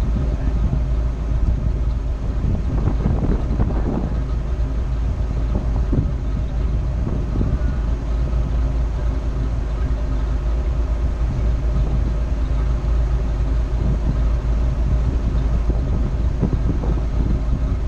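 A vehicle engine idling steadily under a heavy low rumble.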